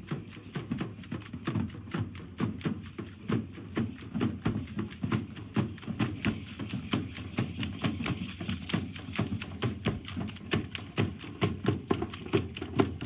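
Matachines dance percussion: a fast, unbroken run of taps and thumps, several a second, from the dancers' drumming and stepping.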